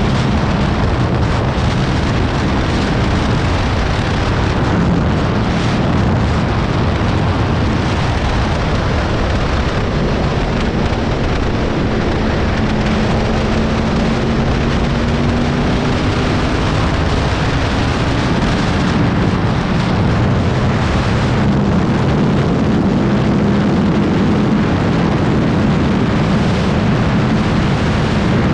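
Heavy wind buffeting on the microphone of a moving moped, with the moped's engine running underneath at a steady pitch that drifts slowly up and down.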